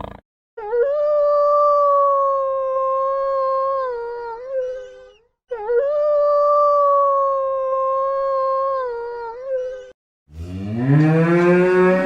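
Two long, steady howling calls of about four seconds each, near-identical, each ending in a wavering drop in pitch. Near the end a cow starts a low moo that rises in pitch.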